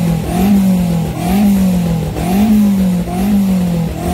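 Car engine held at the start line and revved up and down over and over, about once a second, its pitch climbing and dropping with each blip.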